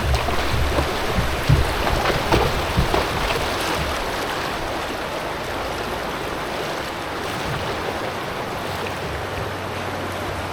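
Rushing water: a steady wash of moving river current, with a few sharp splashes or knocks in the first few seconds.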